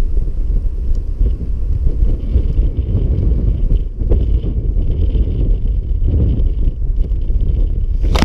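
Strong gusty wind buffeting the microphone, a loud, steady low rumble.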